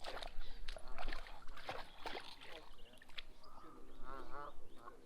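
A dog splashing about in water with a stick, then waterfowl calling several times in the second half.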